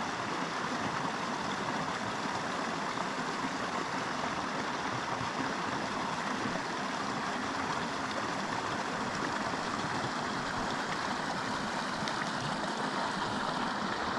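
Small mountain creek flowing steadily, an even wash of running water.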